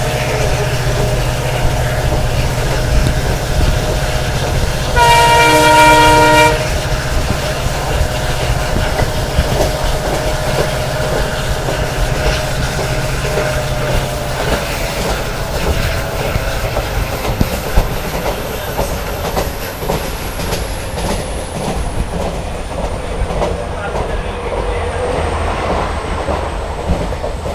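Passenger train running, heard from on board: steady rumble with the clickety-clack of wheels over rail joints. About five seconds in, the hauling WDP4 diesel locomotive sounds its horn once for about a second and a half, a loud multi-tone chord.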